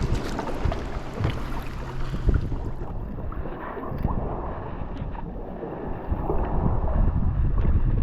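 Wind buffeting the microphone over water sloshing and splashing around a paddled kayak, with scattered knocks. A low steady hum runs for the first couple of seconds.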